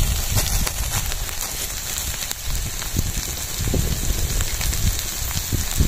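Vegetables and egg sizzling in a wok over a wood fire: a steady frying hiss with faint scattered crackles.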